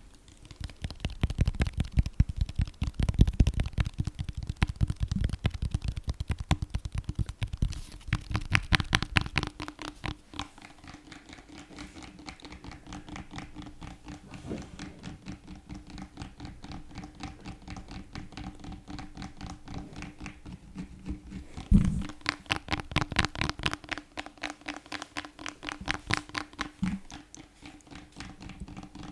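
Fast ASMR tapping and scratching: a rapid, dense run of light clicks and scrapes. It is louder for the first ten seconds or so, quieter through the middle, and louder again a little past twenty seconds in.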